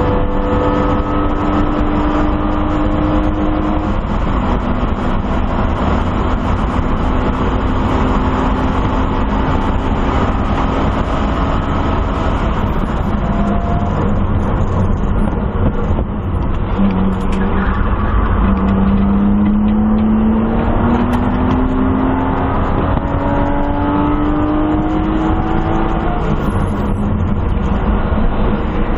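1997 BMW M3's inline-six engine heard from inside the stripped race car's cabin on track, over constant road noise. The engine note holds high at first, drops away as the car slows from about 106 to 70 mph for a corner, then climbs steadily under acceleration with a break near the end, likely a gear change.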